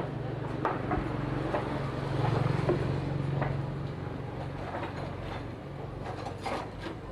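A small engine running steadily, a little louder for a couple of seconds, with scattered clicks and knocks over it.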